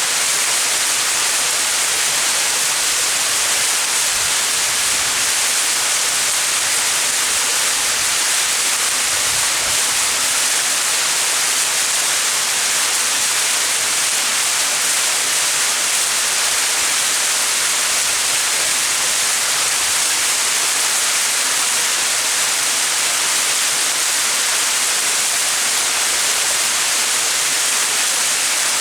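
Small mountain waterfall: a steady, even rush of falling water, bright and hissy.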